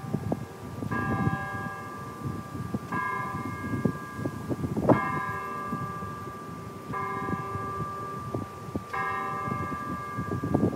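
A campus tower bell ringing out in slow, even strokes, one about every two seconds, each stroke ringing on until the next.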